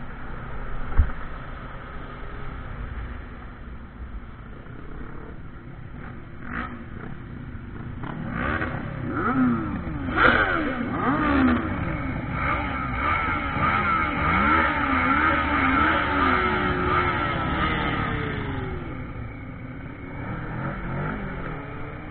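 Motorcycle engine revving up and down, its pitch rising and dropping again and again, over a steady low rumble. A single sharp thump comes about a second in. The engine is loudest in the middle stretch and eases off near the end.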